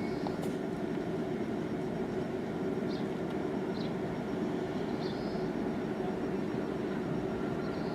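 Steady low hum and rumble of a parked car's running engine, heard from inside the cabin. A few faint high chirps come through about three, four and five seconds in.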